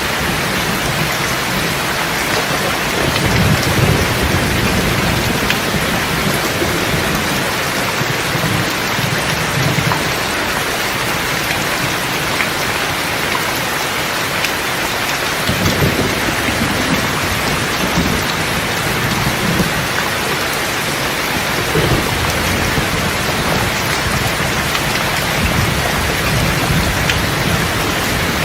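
Steady heavy rain pattering on a surface, with low rolls of thunder rumbling in and out several times: a thunderstorm.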